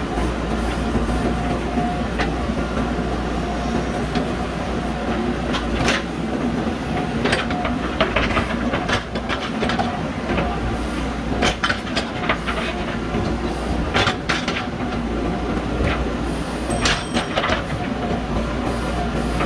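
JCB backhoe loader's diesel engine running steadily under digging load, with irregular sharp clanks and knocks of metal throughout.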